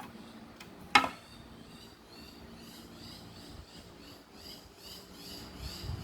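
A single sharp click about a second in, then faint high chirping that repeats a few times a second.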